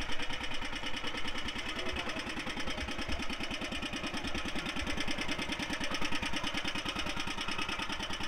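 A car engine idling with a fast, even pulsing beat.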